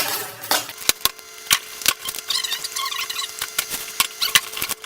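A package being unpacked by hand: a run of sharp clicks and knocks with a stretch of plastic-wrap crinkling about halfway through, over a faint steady hum.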